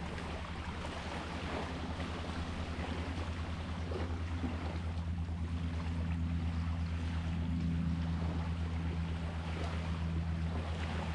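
A boat's engine running steadily with a low, pulsing drone over the wash of sea water, growing slightly louder over the first several seconds.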